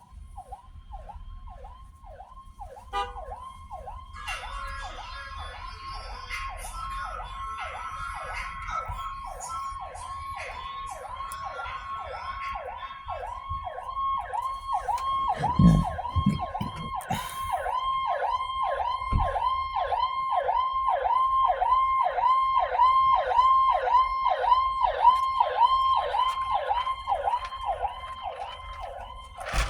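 Police car siren in fast yelp mode, a falling wail repeating about two to three times a second, getting louder as it comes closer. A few low thumps sound just past the middle.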